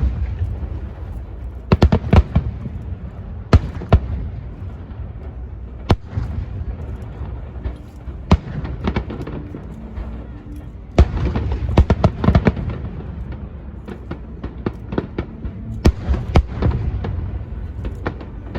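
Aerial fireworks going off: many sharp bangs over a continuous low rumble, with the densest volleys about two seconds in and again from about eleven seconds.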